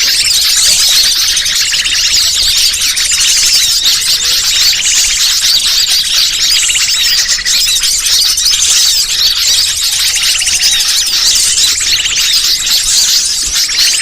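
Bird-lure recording: a dense, unbroken chorus of many small birds chirping and twittering at once, high-pitched and loud.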